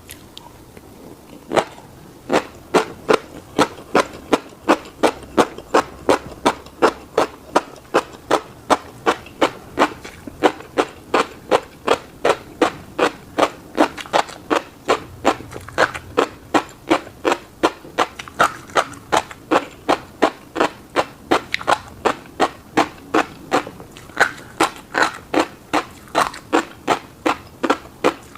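Close-miked chewing of a mouthful of fish roe and rice, a wet click with each chew at a steady pace of about two to three chews a second, starting about a second and a half in.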